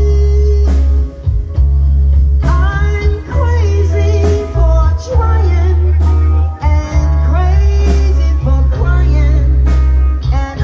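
A rock/blues band playing a song with a singer, loud bass, guitar and drums.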